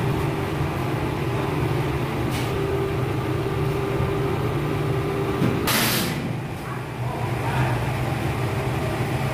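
Heavy machinery engine running steadily at an even pitch, with a short burst of hissing air a little past halfway.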